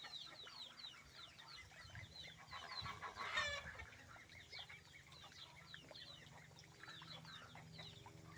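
Free-range chickens: a dense, continual stream of short, high, falling peeps and chirps, with one louder squawk about three and a half seconds in.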